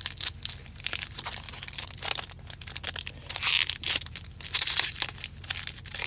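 Foil Magic: The Gathering booster pack wrapper crinkling as it is handled and torn open, in uneven bursts that are loudest around the middle.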